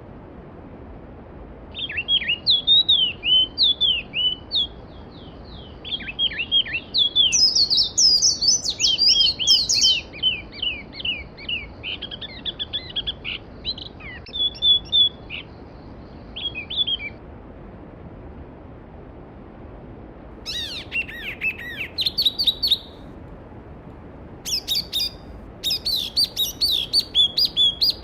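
Songbirds singing in runs of quick, high chirps over the steady rush of a mountain stream, with a second bird overlapping for a few seconds and a short lull in the song past the middle.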